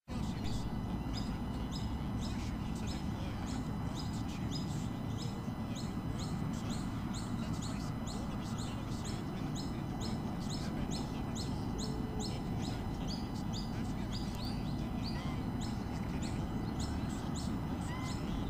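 A bird chirping fast and steadily, short high chirps that drop in pitch at about four a second, over a steady low rumble.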